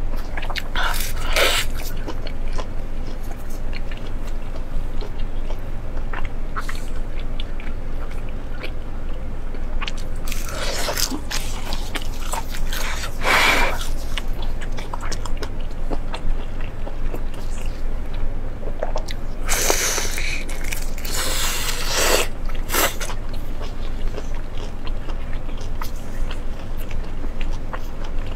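Close-miked biting and chewing of braised pork large intestine, with about five separate louder bites or wet pulls standing out over a steady low hum.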